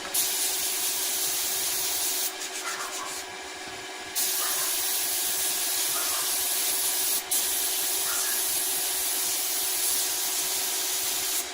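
Wood being worked on a lathe: a steady hissing scrape of a tool against the spinning wood over a faint steady motor hum. The scrape eases off for about two seconds, about two seconds in, then resumes, with one brief break near the middle.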